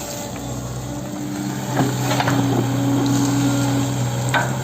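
Hitachi 110M excavator's diesel engine running steadily, with a few short knocks and clatters about two seconds in and again near the end.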